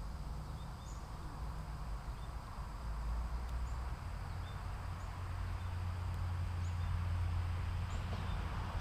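Outdoor ambience: a steady insect drone with scattered short, high chirps and a low rumble underneath.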